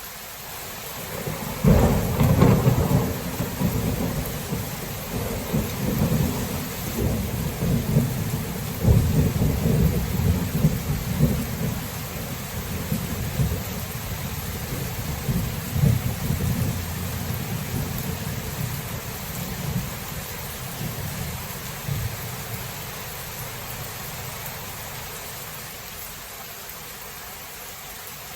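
A long roll of thunder over steady rain: the rumble breaks in sharply about two seconds in, crackles and rolls for several seconds, then slowly dies away while the rain hiss goes on.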